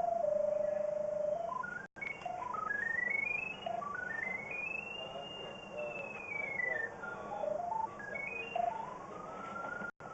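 Pipe locator receiver tone stepping in pitch as the locator is swept over the sewer camera's transmitter. It holds low at first, climbs step by step to a peak about five seconds in, falls away, then climbs again near the end.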